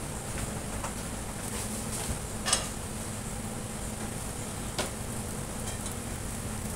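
Fried rice cooking in a wok on a gas stove: a steady hiss, with two sharp metal clinks of a utensil, a little after two seconds in and again near five seconds.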